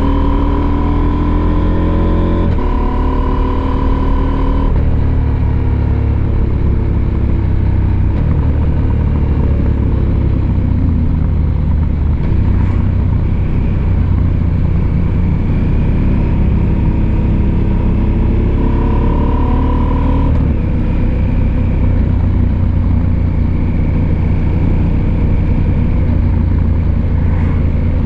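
Husqvarna Norden 901's parallel-twin engine pulling on the move, its note sliding down in the first few seconds and climbing again later as the revs change, over a steady low rumble.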